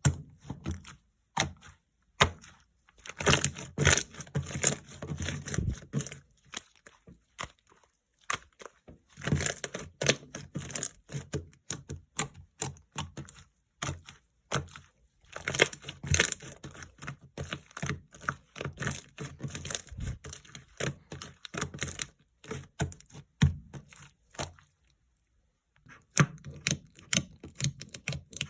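Jiggly slime being squeezed, poked and stretched by hand, giving quick runs of sticky clicks and crackling pops in bursts with short pauses between them.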